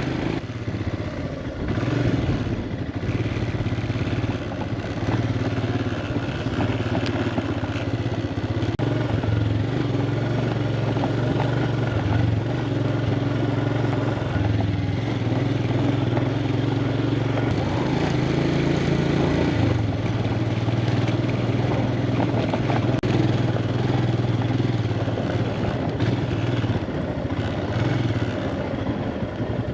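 Motorbike engine running steadily under way, its note stepping up and down a few times with throttle changes, over a steady rushing noise.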